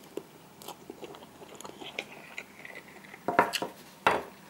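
A person chewing a mouthful of instant cup noodles, with faint scattered mouth clicks and a few louder sharp clicks or knocks about three and a half and four seconds in.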